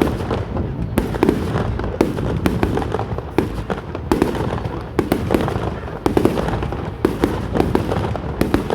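Fireworks display going off: rapid, irregular bangs and crackles, several a second, over a continuous rumble.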